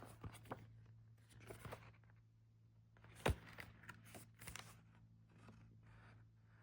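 Quiet handling of a CD album's paper and plastic packaging: scattered soft rustles and taps, with one sharper click a little past three seconds in, over a faint steady hum.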